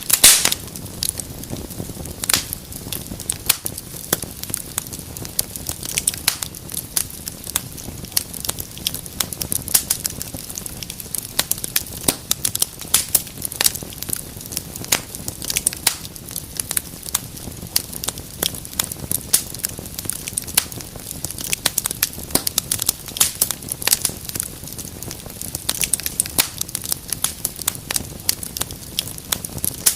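Wood fire crackling steadily in a fireplace, with frequent sharp pops and snaps over a low hiss of burning, and one loud pop right at the start.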